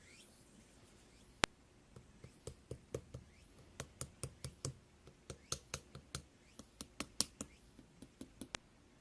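A string of light, irregular taps and clicks, about two or three a second, with one sharper click about a second and a half in.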